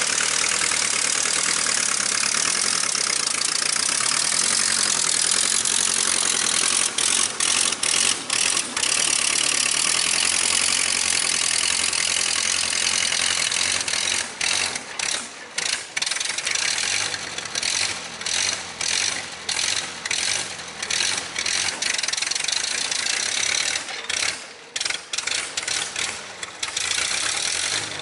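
1956 Case 310 tractor's engine running steadily, then from the middle on stumbling and cutting in and out again and again. The owner puts this down either to running out of gas or to the leaking, worn carburetor acting up as the engine heats.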